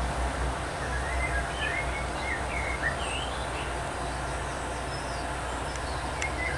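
Birds chirping in many short, quick calls from about a second in, over a steady low rumble.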